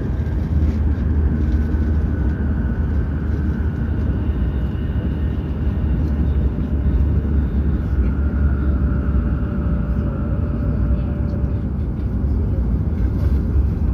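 Hokuriku Shinkansen train running at speed, heard from inside the passenger car: a steady, deep rumble of running noise with faint high tones drifting over it.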